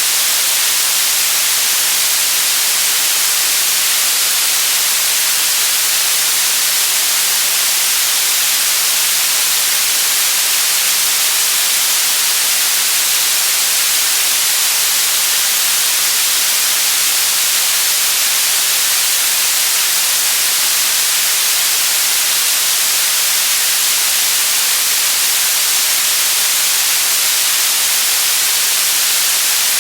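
Steady white noise: an even, unbroken hiss, brightest in the high end, with no change in level.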